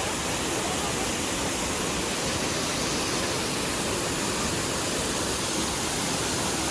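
Large waterfall rushing: a steady, even noise of falling water, with no breaks.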